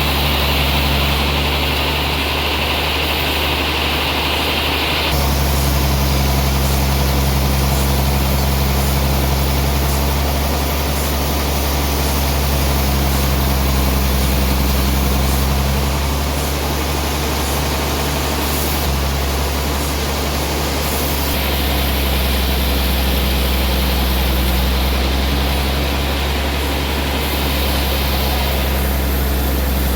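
Sawmill machinery running steadily with a strong low hum. The sound shifts abruptly a few times.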